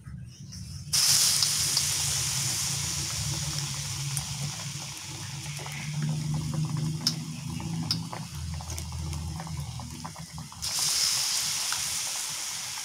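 Hot oil sizzling as batter-coated tempe gembus goes into the pan, starting suddenly about a second in and flaring up again near the end, with small pops and ticks.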